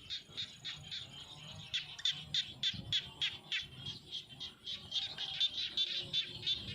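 High-pitched animal calls, short and repeated quickly at several a second, bird-like.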